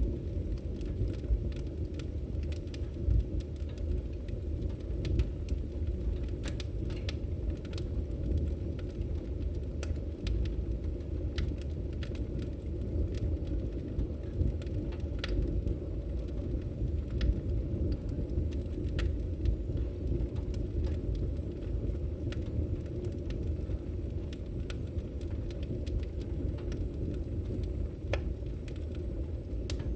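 Wood fire in a fireplace crackling: a steady low rumble of flames with irregular sharp pops and snaps, one louder snap near the end.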